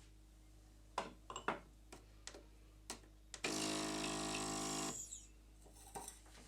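Several sharp clicks and knocks of the portafilter being handled and locked into the DeLonghi Dedica's group head. Then the machine's vibratory pump buzzes steadily for about a second and a half as brewing starts, and stops.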